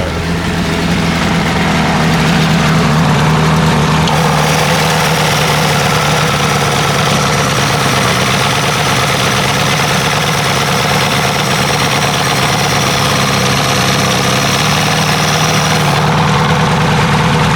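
1960s 75 hp Evinrude Starflight two-stroke V4 outboard motor running steadily at low throttle. A higher hiss joins about four seconds in and fades near the end.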